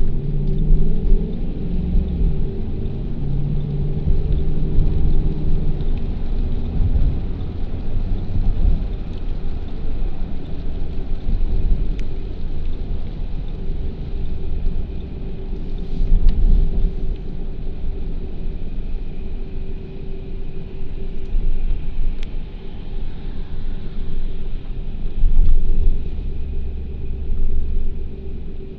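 Low rumble of a car on the move with a steady engine hum, its pitch shifting in the first few seconds; a few sharp ticks.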